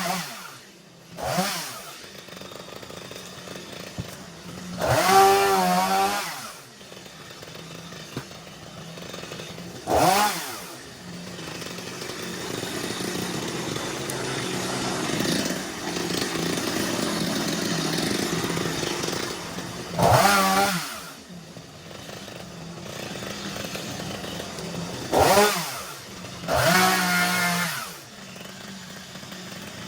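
Two-stroke chainsaw revved hard in short bursts about six times, dropping back to a lower steady running note between them, with a longer steady stretch in the middle.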